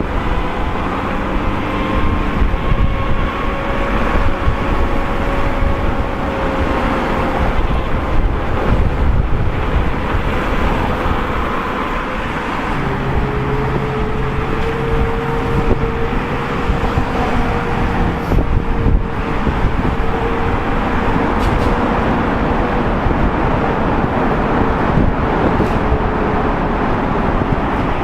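Knobby tire of an Inmotion V13 electric unicycle humming on the road while riding, the hum drifting slowly up and down in pitch with speed. Wind on the microphone and passing traffic run under it.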